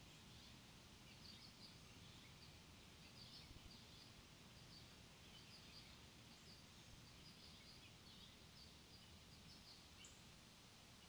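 Faint, high, short bird chirps repeating irregularly over a steady outdoor background hiss.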